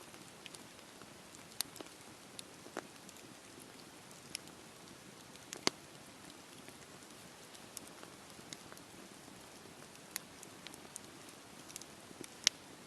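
Wood fire crackling in a fireplace: a steady soft hiss under irregular sharp pops and snaps, two of them louder, one just before the middle and one near the end.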